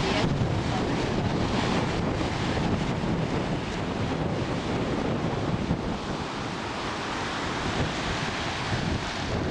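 Wind buffeting the microphone: a steady rushing noise with a rumbling, fluctuating low end.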